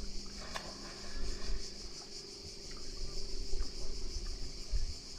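A steady, high-pitched insect chorus, with low rumbling underneath.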